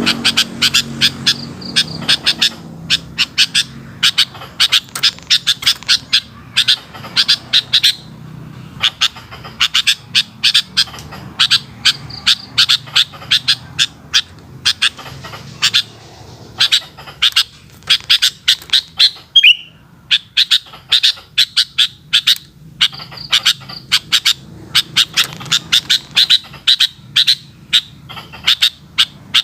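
Sooty-headed bulbul (kutilang) calling in long runs of rapid, sharp notes broken by brief pauses, with one short sliding call about two-thirds of the way through.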